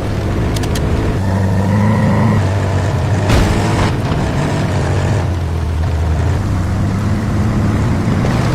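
Heavy truck engine running with a low, steady note, revving up briefly about a second in, with a short rushing burst of noise about three seconds in.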